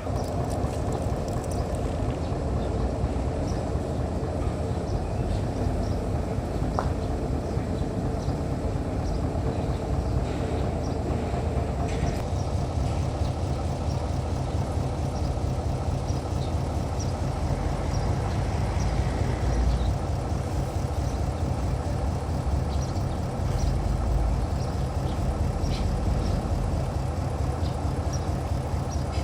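A motor running steadily, a low continuous drone with a fast pulsing at the bottom.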